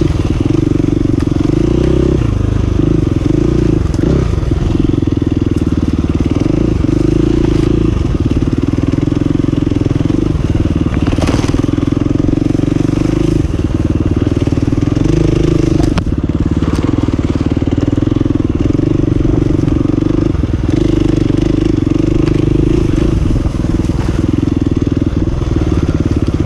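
Single-cylinder four-stroke dirt bike engine running under way, its note holding fairly steady with a few short dips and rises in pitch as the throttle is worked.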